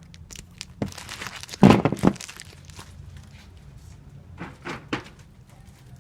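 Sticky tape pulled from a tape dispenser and torn off while comic books are taped, with crinkling and small knocks. The loudest burst comes a little under two seconds in, and a smaller group near the end.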